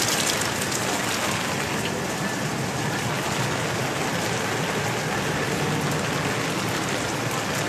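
Heavy rain falling on the fabric roofs and walls of large tents: a steady, even hiss.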